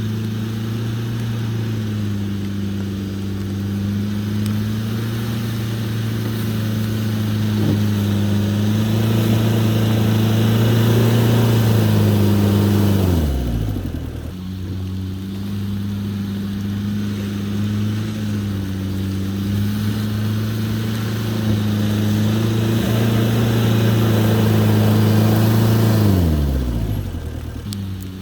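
Jeep Cherokee XJ's 2.5 turbo diesel engine pulling at steady revs on the trail, its note held even; about halfway through and again near the end the revs fall away sharply, then pick up again.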